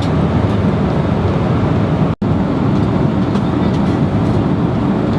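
Steady, loud roar of an airliner cabin in flight: engine and airflow noise, deepest in the low range. It drops out for an instant about two seconds in.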